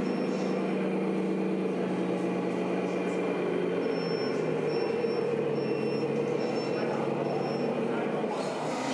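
Radio-controlled scale model truck running: a steady engine-like drone with a thin whine, its low tone stepping down about four seconds in.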